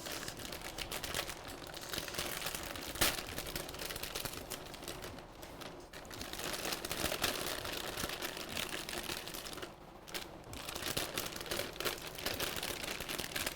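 Kitchen handling noise: rustling and a run of small clicks and taps, with one sharper knock about three seconds in, as broccoli is got out and prepared at the counter.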